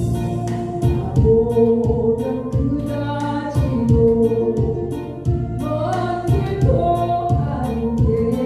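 Vocals singing a Korean trot song over a backing track with a steady beat.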